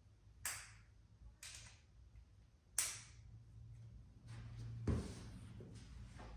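A few sharp clicks and clinks of hand tools, about four in all, as rotor bolts are snugged down on a motorcycle wheel, over a faint steady low hum.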